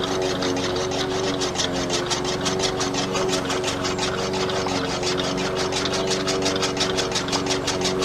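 Small DC hobby motor running steadily, driving a miniature chaff cutter by a belt, with a rapid, even ticking as the spinning cutter blade chops fresh grass.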